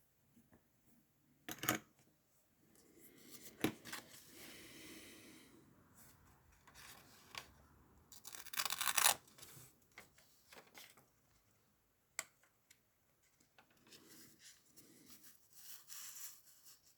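Document repair tape and paper handled at close range: light rustling and scraping, a few sharp clicks, and a louder rasping tear or peel about halfway through.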